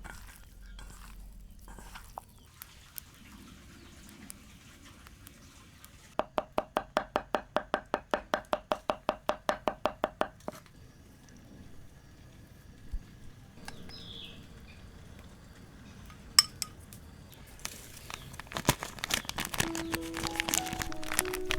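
Kitchen utensil clinking rapidly and evenly against a bowl, about five ringing strikes a second for some four seconds, with scattered knocks of kitchenware before and after. Soft music comes in near the end.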